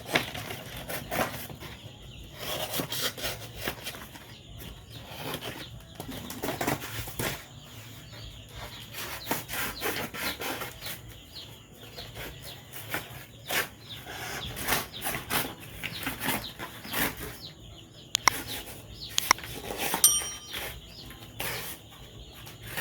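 A cardboard chick-delivery box being cut and folded by hand into a feeding trough: irregular rustling, crinkling and scraping of cardboard throughout, with a brief high squeak about twenty seconds in.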